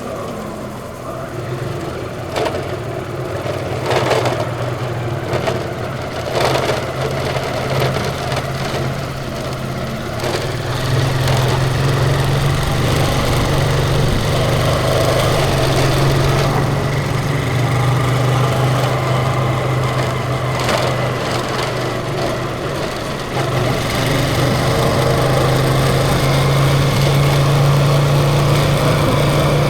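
A vehicle's engine running steadily while driving, growing louder about eleven seconds in and again near the end, with a few short knocks in the first seconds.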